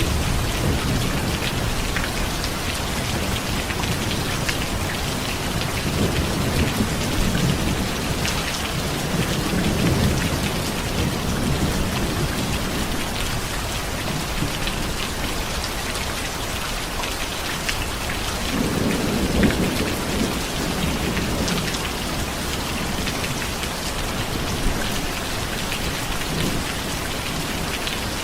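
Steady heavy rain falling, with low rolls of thunder rumbling under it several times, the loudest roll about two-thirds of the way through.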